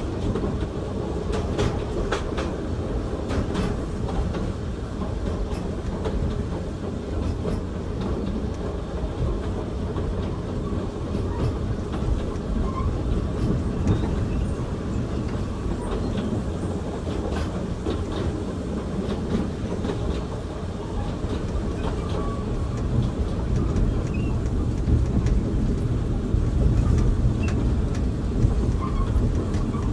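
Inside an Oigawa Railway Ikawa Line passenger car on the move: a steady rumble of wheels on rail, with clicks over rail joints in the first few seconds and a few brief, faint squeaks. It grows a little louder near the end.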